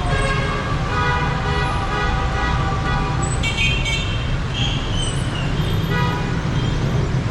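Busy city street traffic: a steady rumble of car, bus and motorbike engines, with car horns honking repeatedly over it.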